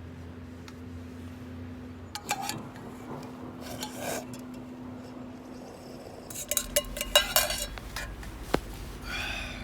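Metal camp cookware and utensils clinking and scraping in a few separate bursts, busiest about two-thirds of the way through, with a single sharp click near the end. A steady low hum runs underneath.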